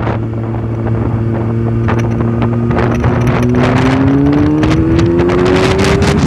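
Tuned Kawasaki ZX-6R inline-four engine under way, its note steady at first and then rising through the second half as the bike accelerates, with wind rushing over the microphone.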